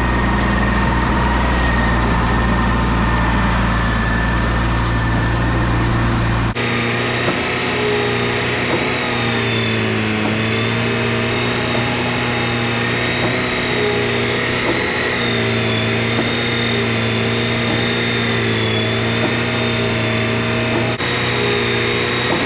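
An engine running steadily on a concrete job site, its pitch wavering slightly. The sound changes abruptly about six seconds in and again near the end, where the footage is cut.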